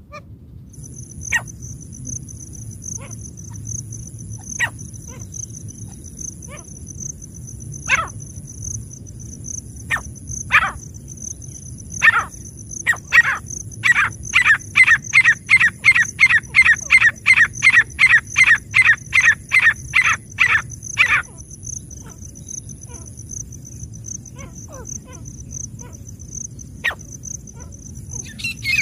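Francolin (teetar) calling: scattered sharp single notes, then a fast, even run of calls at about three to four a second for some seven seconds in the middle, then a few more single notes. A steady high-pitched whine runs under it throughout.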